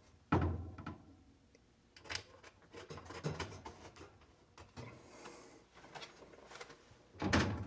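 HVAC air filter access cover being handled and fitted back into place and its fastening nuts turned: a knock about half a second in and another near the end, with lighter clicks and scrapes between.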